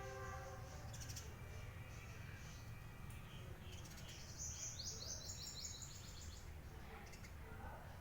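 Green ringneck (rose-ringed) parakeet giving a quick run of short, high chirps, each falling in pitch, about halfway through, over a low steady hum.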